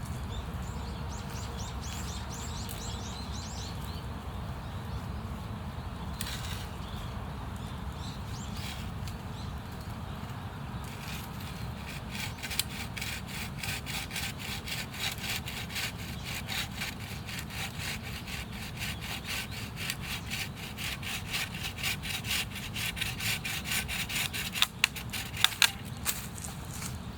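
Hand saw cutting through wood in quick, regular back-and-forth strokes, starting about eleven seconds in, with a few sharp snaps near the end.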